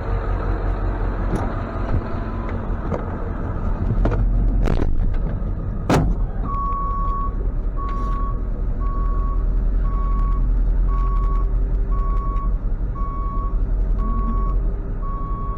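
Tow truck engine running steadily, with two sharp bangs about five and six seconds in. Then the truck's reverse backup alarm starts beeping about once a second as it backs up.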